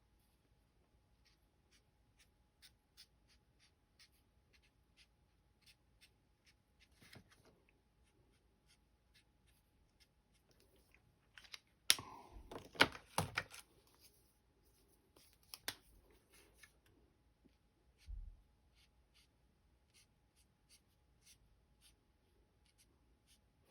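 Alcohol-marker tip stroking on cardstock in faint, evenly spaced ticks. A cluster of louder clicks and knocks comes about halfway through, with a low thump a few seconds later.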